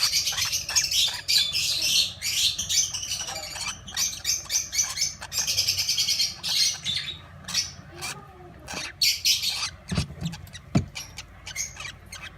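Young African lovebirds chirping in a rapid, high-pitched run that thins out after about seven seconds.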